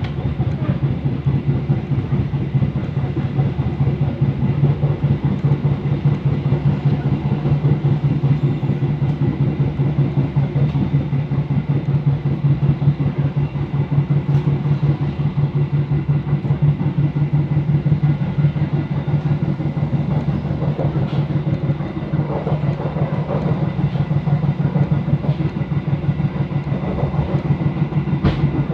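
Pariaman Express passenger train running along the track, heard from on board: a loud, steady rumble with a constant low hum and a fast pulsing beat, with a faint click or two.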